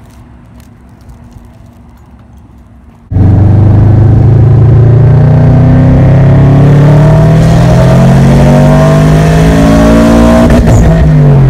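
Straight-piped car exhaust, very loud, coming in suddenly after about three seconds of quieter background noise. The engine pulls with its pitch climbing steadily, then drops near the end.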